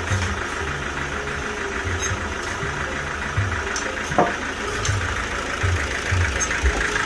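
An engine idling steadily with an uneven low throb, and a single sharp knock about four seconds in.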